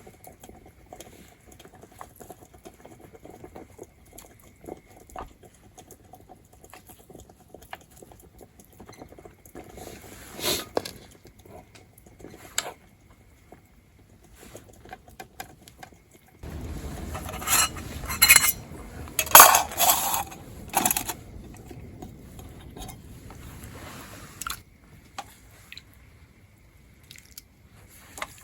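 Eating utensils clinking and scraping against camp cookware during a meal, with a busier run of sharp clinks in the middle.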